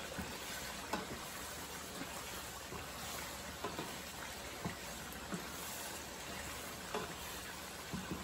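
Chicken and tomato masala sizzling in a nonstick frying pan as a wooden spatula stirs it: a steady frying hiss with scattered soft pops and taps. The tomato liquid has cooked off, so the masala is frying rather than simmering.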